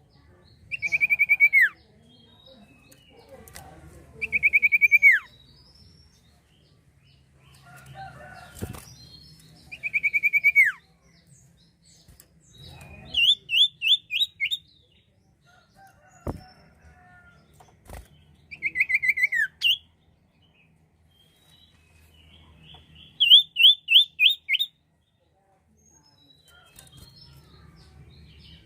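A sirtu songbird singing short, rapid trilled phrases every few seconds, each about a second long. Some phrases slide downward in pitch and others run as quick rising notes. A couple of sharp clicks come in the middle.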